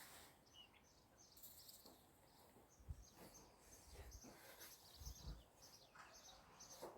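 Faint, repeated high bird chirps over near silence.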